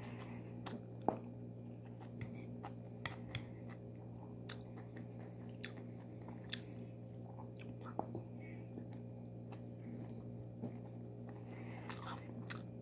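Close-up chewing of rice mixed with yogurt and cucumber, eaten by hand: soft mouth sounds with scattered small clicks and smacks. A steady low hum runs underneath.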